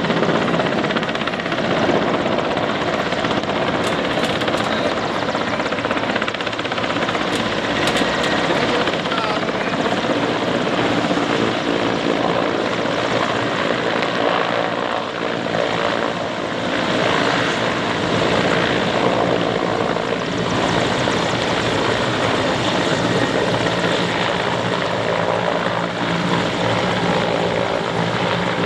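Helicopter running close by, its turbine and rotor noise a loud, steady rush.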